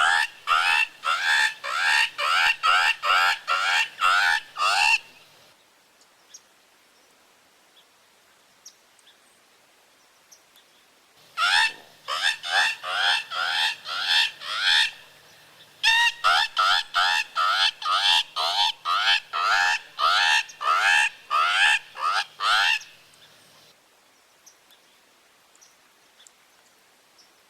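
Bird distress cries blown on a mouth diaphragm predator call: rapid, harsh, rising squeals, about three a second, in three runs with pauses between. This is a prey-distress sound used to draw in predators, above all bobcats and gray fox.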